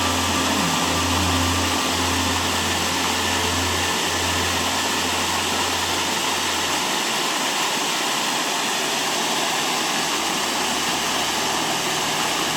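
Steady, loud rushing noise of water, as from a waterfall or rapids. A low droning hum pulses underneath and stops about seven seconds in.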